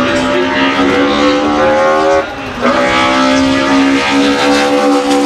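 BMW M3 E30 DTM race car's four-cylinder engine running hard at high revs with a steady, high pitch. It cuts out briefly a little over two seconds in, then pulls on again.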